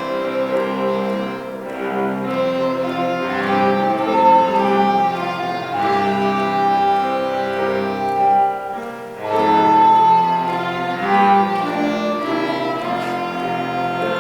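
A small ensemble of violin, cello and ocarina playing a waltz live, with long sustained melody notes. The playing dips briefly about nine seconds in, then resumes.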